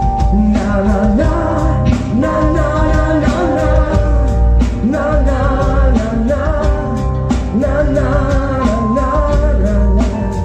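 Live rock band playing a song, with drums keeping a steady beat under sustained tones and a wavering melody line.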